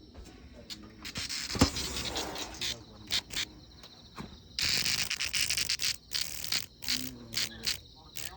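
A cicada giving harsh, broken buzzes: a long buzz about a second in, another past the halfway mark, and many short bursts in between and near the end. A sharp knock sounds once about a second and a half in.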